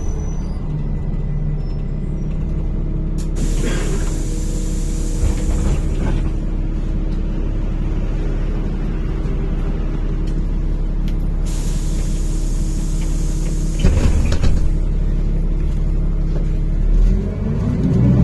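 NefAZ-5299 city bus pulling up and idling at a stop. Compressed air hisses twice, about three seconds in and again about eleven seconds in, with clunks at about four and fourteen seconds. The engine speeds up near the end as the bus pulls away.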